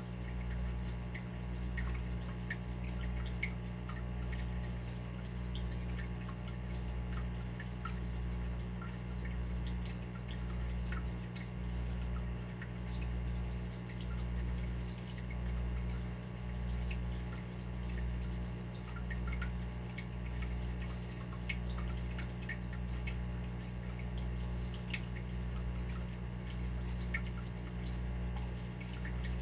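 Water dripping: small, irregular drops ticking throughout, over a steady low hum that swells and fades about once a second.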